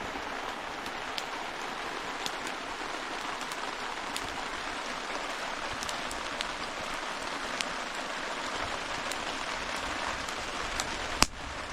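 Steady rain alongside a campfire, with scattered sharp crackles and one louder crack near the end.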